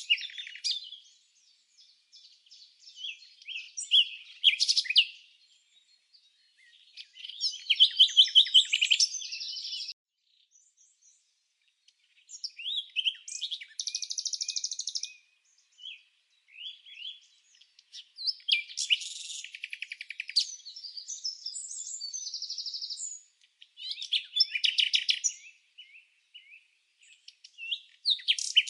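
Songbird singing in separate phrases of quick, high chirps and trills, each a second to a few seconds long, with pauses of near silence between them and no background noise.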